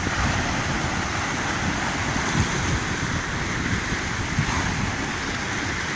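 Black Sea surf rolling in and breaking on the shore, a steady rushing wash, with wind buffeting the microphone.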